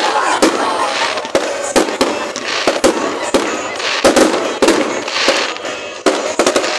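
Fireworks going off in a rapid, irregular string of sharp bangs over continuous crackling.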